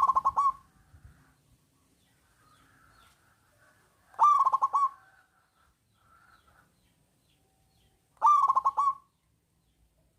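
Zebra dove (perkutut) singing: three phrases about four seconds apart, each a high opening note followed by a fast run of short coos.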